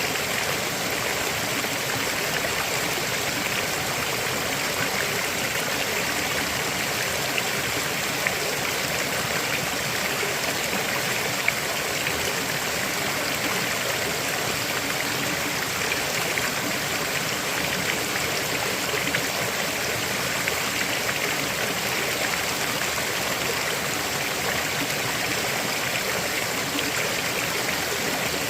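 River water flowing over rocks: a steady, even rush of moving water with small splashes.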